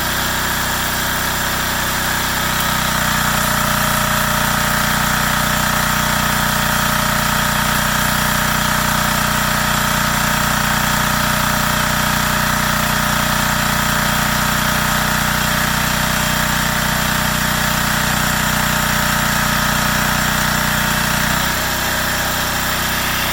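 Yanmar L100V single-cylinder air-cooled diesel running a generator, its note changing as a welding load comes on about two seconds in and dropping back near the end. A steady whine and hiss sit over the engine while the load is on.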